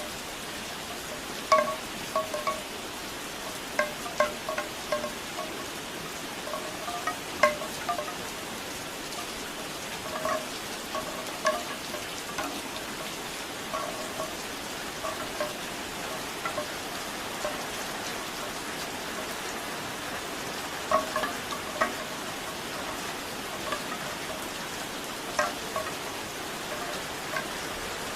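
Bamboo wind chimes clacking in irregular clusters of short, hollow, pitched knocks over steady rain.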